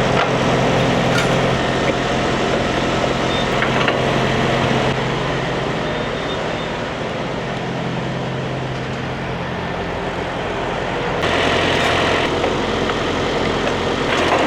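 Semi-truck running down the road, its engine and road noise heard steadily from the cab, with the engine note changing about five seconds in and a louder stretch around eleven to twelve seconds.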